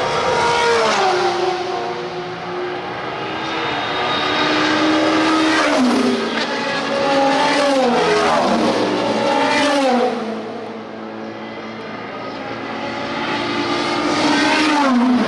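IMSA sports-car race cars passing at speed one after another, each engine note falling in pitch as the car goes by. Several cars pass in turn, with the loudest moments as each comes closest.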